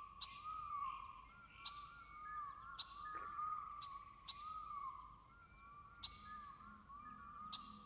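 Synthesized, artificial bird-like chirping: quiet whistled tones that rise and fall in short arches about once a second, with sharp clicks every second or two.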